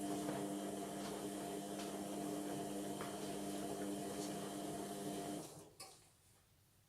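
Indesit washing machine running with a steady mechanical hum, which dies away about five and a half seconds in, followed by a few faint clicks.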